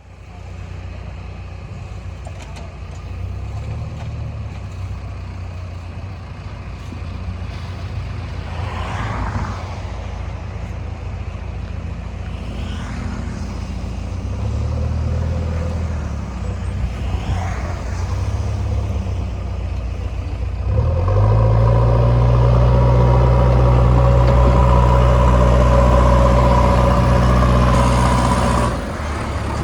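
JCB 3DX backhoe loader's diesel engine running. There are three brief falling whines along the way. About two-thirds of the way in it revs up loudly under load and holds there, then drops back to a lower speed near the end.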